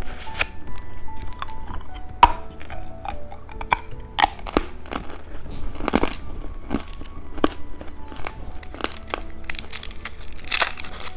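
Plastic candy packaging crinkling and rustling as it is handled, in irregular sharp crackles that grow denser near the end, over soft background music.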